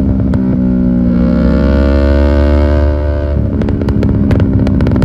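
Yamaha R6 inline-four sport-bike engine through an Akrapovič exhaust, revving while riding: the pitch climbs for about two seconds, then falls suddenly a little after three seconds in. Short sharp clicks follow near the end.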